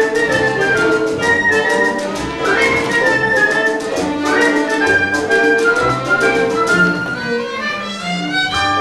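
Theatre orchestra playing lively instrumental music, bowed strings leading the tune, over a quick, even run of sharp clicks.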